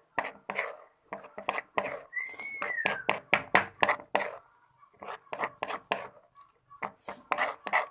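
A stirrer clicking and scraping in a container as glue, liquid soap and slime activator are stirred into slime that is starting to clump. Irregular taps throughout, with a brief squeak that rises and falls about two and a half seconds in.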